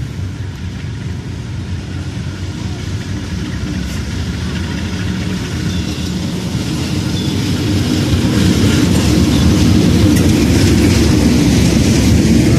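Diesel locomotive of a commuter train running as it approaches, its low engine rumble growing steadily louder. From about eight seconds in, the coaches roll past with a high metallic squeal as the train slows to stop.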